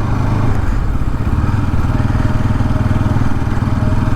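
Motorcycle engine running steadily at an unchanging pitch.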